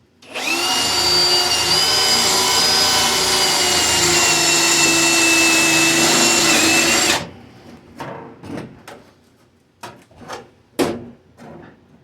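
Electric drill running on sheet metal for about seven seconds, a steady whine whose pitch sags slightly under load before it cuts off. Then several sharp metal clinks and knocks.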